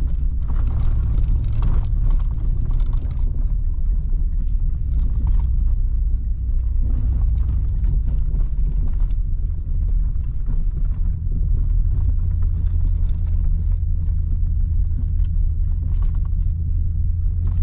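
4x4 truck driving through deep snow: a steady low engine and road rumble, with scattered light crackling over it. The low drone grows stronger about two-thirds of the way through.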